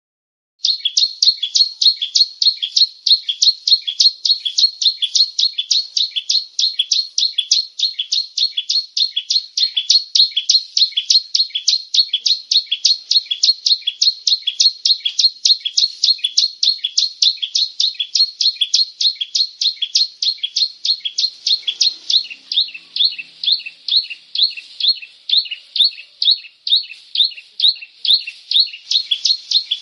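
Bar-winged prinia singing: a long, steady run of sharp, high chipping notes, about four a second, begun abruptly about half a second in.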